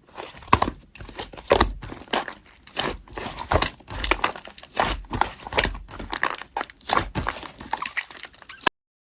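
Slime being squeezed and pressed by hand, a run of crackly, crinkly squishes about twice a second. It cuts off suddenly near the end.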